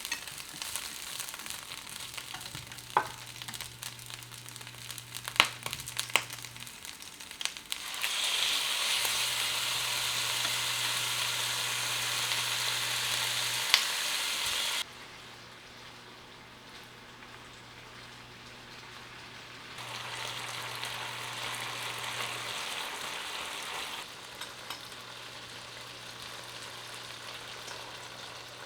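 Food frying and sizzling in a hot pan, a steady crackling hiss that gets louder for several seconds around the middle and drops back down in a few abrupt steps. A few sharp clicks or taps come in the first half.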